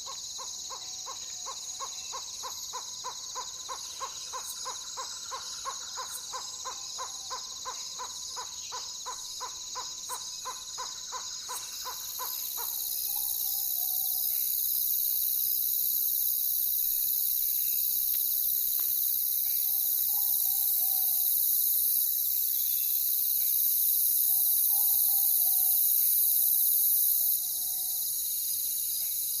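An owl calling: a long, even series of hoots, about three or four a second, for roughly twelve seconds, then a few falling, wavering calls. A steady chorus of night insects runs underneath and grows louder about halfway through.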